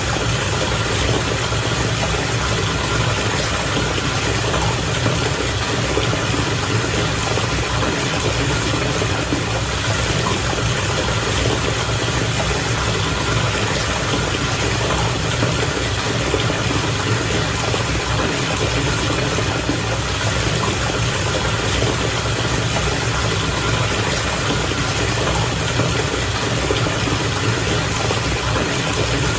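Water bubbling steadily in a bath, with a constant low hum beneath it.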